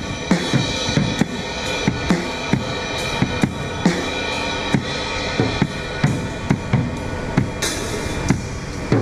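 A drummer playing drums in a steady, busy rhythm: repeated low drum hits under ringing cymbals, with a cymbal crash near the end.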